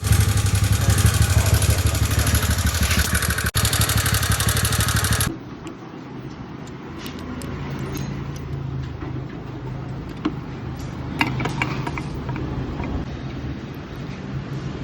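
TVS NTorq 125 scooter's single-cylinder engine running. For about the first five seconds it is loud with a dense, fast rattle; after a sudden cut it runs much quieter and steadier, with a low hum and a few light clicks.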